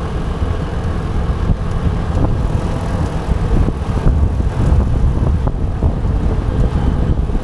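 Wind rumbling over the action camera's microphone on a moving scooter, mixed with the scooter's running and road traffic noise.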